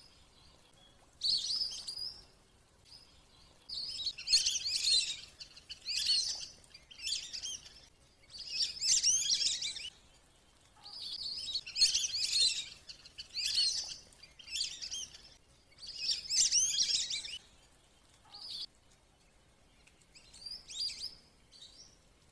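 Wandering whistling duck (belibis kembang) calls, played as a lure: repeated bursts of high whistling chatter, about a dozen short bursts separated by brief pauses.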